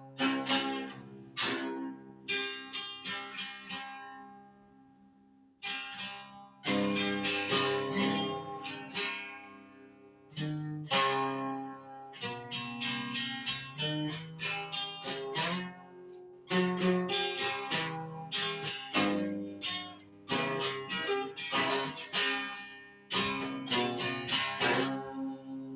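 Acoustic guitar in an alternate tuning, played as an instrumental with picked and strummed chords. About three seconds in, a chord is left to ring and fade, and the playing picks up again around six seconds in.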